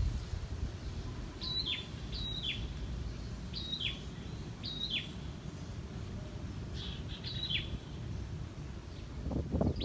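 A songbird calling repeatedly: about six short, high calls, each dropping sharply in pitch, roughly a second apart, over a steady low background rumble.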